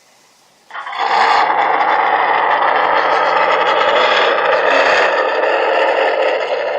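Radio-controlled monster truck's motor and steel-geared drivetrain running, coming on suddenly about a second in and then holding a loud, steady whir.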